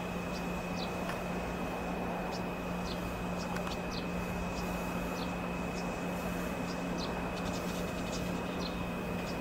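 Steady hum of a JR Kyushu YC1 series diesel-hybrid railcar standing at the platform, with a thin, constant high whine and scattered faint high chirps over it.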